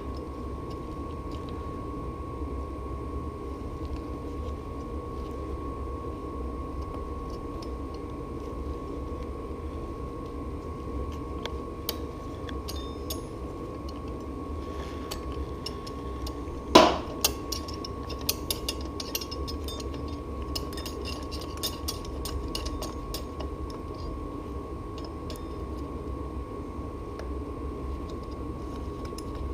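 Hand tools working on bicycle bolts over a steady background hum: about 17 seconds in, one sharp ringing metallic clink, followed by several seconds of light clicks and taps.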